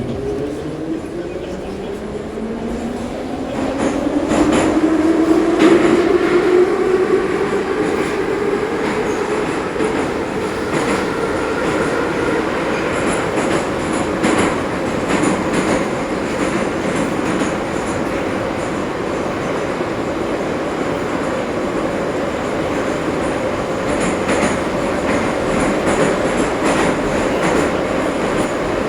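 Ezh3 metro train pulling away and running between stations: the traction motors' whine rises in pitch over the first several seconds, then holds steady at running speed over the rumble of the wheels, with occasional clicks from the rails.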